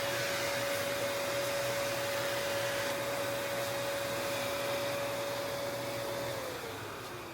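Power sander with dust extraction running on body filler, a steady whine over a rush of air. About six seconds in it is switched off and winds down, the whine falling in pitch as the noise fades.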